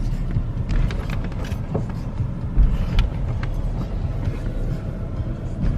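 Car driving, a steady low rumble of road and engine noise with a few faint ticks.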